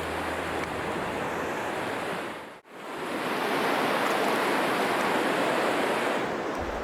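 River water running, a steady rushing noise. It breaks off abruptly about two and a half seconds in and comes back louder and fuller.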